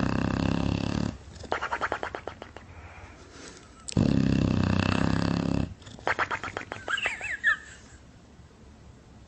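Bulldog snoring loudly: two long, harsh snores, each followed by a softer fluttering breath. The second fluttering breath ends in a few high squeaks.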